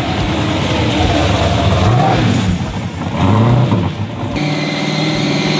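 Dodge Charger's V8, with a blower sticking through the hood, revving as the car drives past and pulls away, its pitch rising and falling in several surges.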